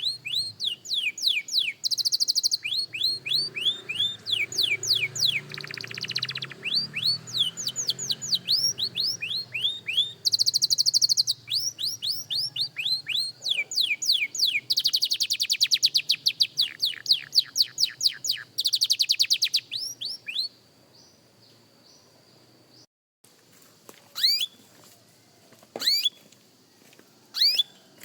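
Young canary singing: long strings of quickly repeated sweeping notes, broken several times by fast buzzy trills. The song stops about three-quarters of the way through, and after a pause a few single sharp chirps follow.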